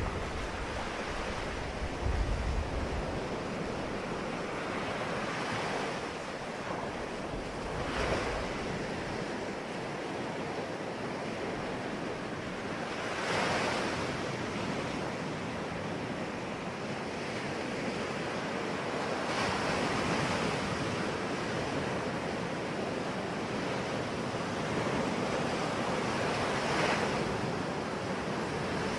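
Sea waves breaking on a shore: a steady wash of surf that swells louder as a wave breaks, about five times, every six seconds or so. Wind buffets the microphone in the first few seconds.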